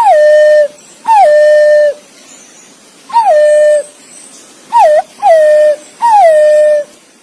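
Green pigeon (punai) calling: six clear whistled notes, each sliding down in pitch and then held for about half a second, one of them shorter than the rest.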